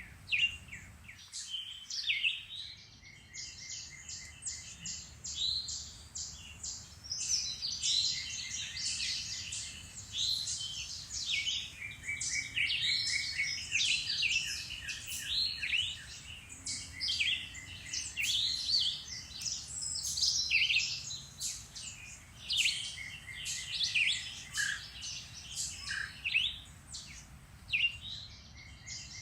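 Several songbirds singing at once in spring woodland, a dense, overlapping chorus of chirps and rapid trills with a faint low background rumble.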